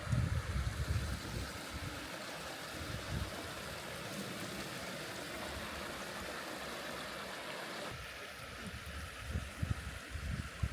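The young River Severn, here a small upland stream, rushing steadily over rocks. Low rumbling bumps, like wind on the microphone, come at the start and again near the end.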